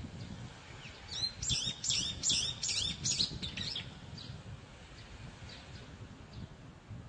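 A bird singing a rapid series of repeated high, arching chirps, about three a second, for roughly three seconds, followed by fainter scattered chirps. A low rumble runs underneath.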